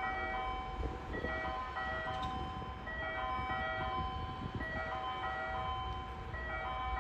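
A station's electronic platform melody, played as a short simple tune of held chime-like notes that repeats about every three seconds, with a steady low rumble underneath.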